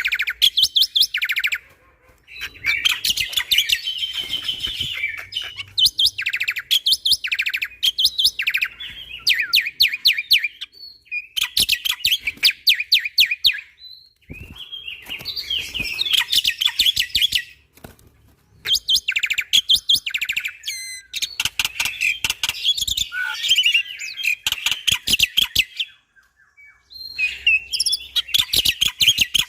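Black-winged starling (jalak putih) singing hard in rapid-fire bursts of fast, repeated sharp notes and chatter. The phrases last one to three seconds, with short breaks between them.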